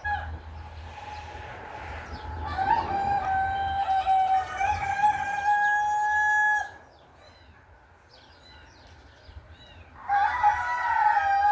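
Rooster crowing: one long, steady crow a couple of seconds in, then a second crow starting near the end.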